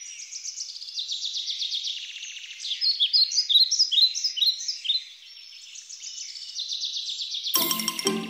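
Several birds singing and chirping: rapid trills and repeated short falling phrases. A music cue comes in near the end.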